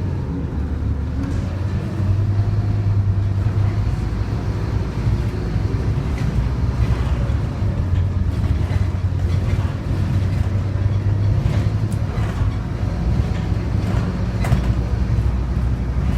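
Scania OmniCity double-decker bus's diesel engine running, a steady low drone with a faint whine that rises and falls over it.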